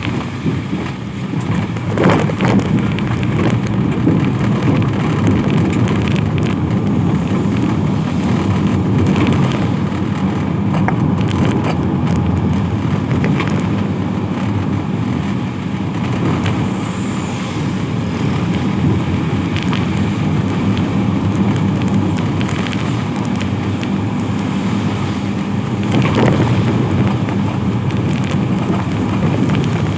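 Steady rain mixed with road traffic going past on a wet road, with two short louder moments, about two seconds in and near the end.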